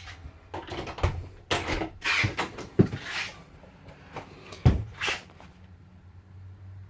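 A series of short knocks and clatters, about six in five seconds, with the loudest near the middle, then a quieter stretch near the end.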